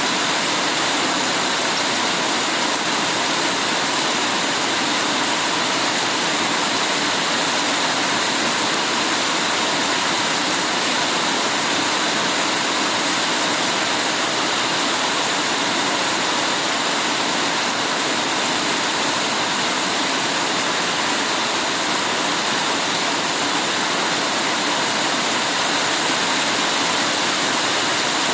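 Heavy rain falling steadily: a dense, even hiss of water with no single drops, thunder or changes standing out.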